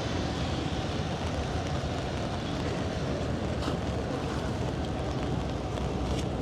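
Steady low rumble of city traffic, with wind on the microphone.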